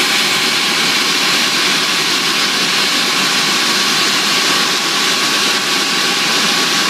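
Ilyushin Il-86's Kuznetsov NK-86 turbofan engines running steadily: a loud, even rush of noise with thin high whining tones on top.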